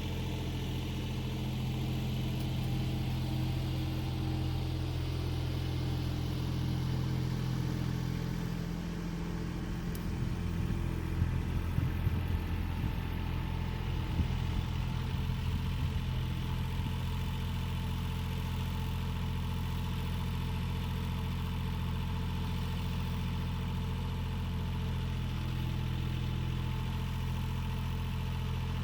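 An engine running steadily at low revs, with a burst of irregular knocks and rattling between about nine and sixteen seconds in.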